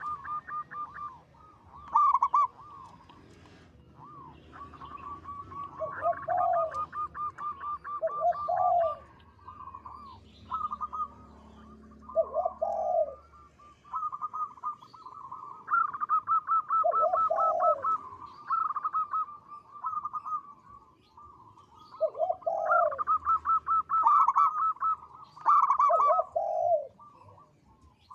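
Zebra dove (perkutut) singing: repeated phrases of rapid, pulsing coos, with deeper swelling coo notes in between.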